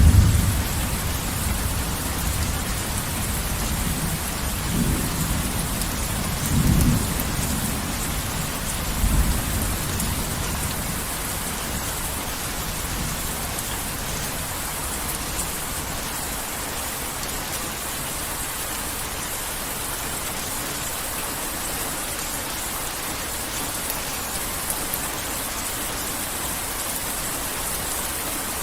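Heavy rain falling steadily, with low thunder rumbling at the start and in several further rolls about five, seven and nine seconds in. After that the thunder dies away, leaving the steady hiss of the rain.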